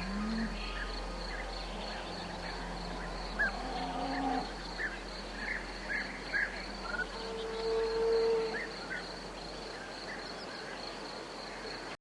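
Tropical forest ambience: a steady, high-pitched insect chorus with scattered short bird chirps, and a few brief low, drawn-out animal calls, one near the start, one about four seconds in and a longer one about eight seconds in.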